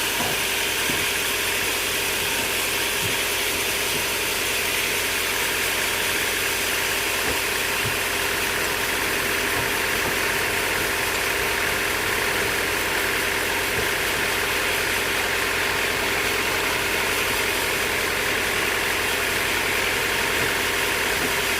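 Sawmill machinery running steadily: an even mechanical hum and whir that holds unchanged throughout.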